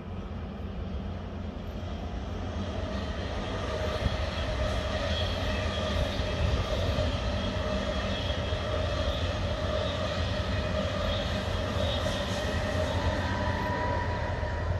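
SBB double-deck electric passenger train passing, with wheels rumbling on the rails and steady whining tones above the rumble. It grows louder over the first few seconds, then holds.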